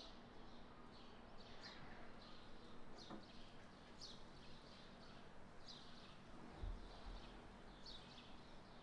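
Faint, short chirps of a small bird, about one a second, each a quick downward sweep, over near silence. A soft low thump about two-thirds of the way in.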